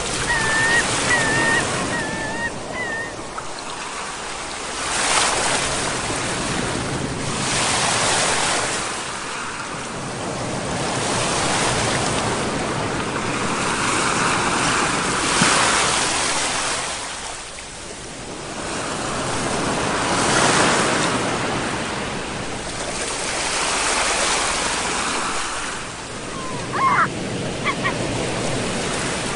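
Ocean surf: waves breaking and washing in, the hiss swelling and fading every few seconds. Short wavering high calls sound in the first few seconds and briefly again near the end.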